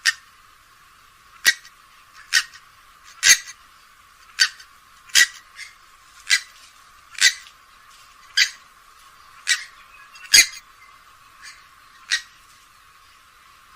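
Grey-headed swamphen giving a series of short, sharp calls, about one a second, some louder than others. The recording has no bass, so the calls sound thin.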